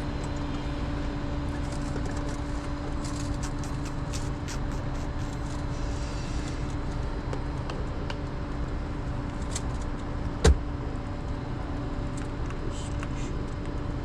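A vehicle engine idling steadily, with scattered light clicks and one sharp knock about ten seconds in.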